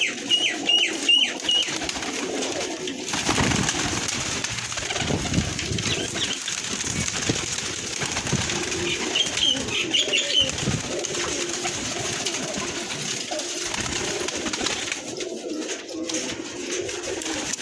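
Many pigeons cooing together in a continuous murmur, with short high bird chirps near the start and again about ten seconds in.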